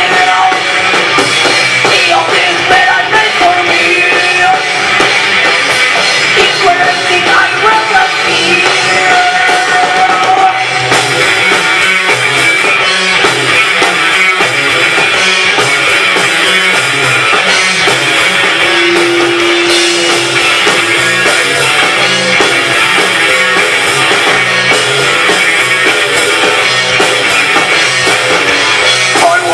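Live rock band playing loud with drum kit and electric guitar, with some singing.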